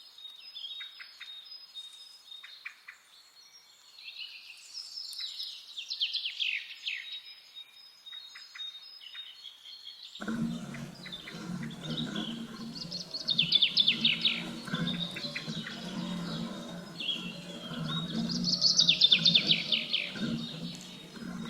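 Songbirds singing: repeated bright phrases that break into fast, high trills, three times. About halfway a steady low rumble of background noise cuts in abruptly under the song.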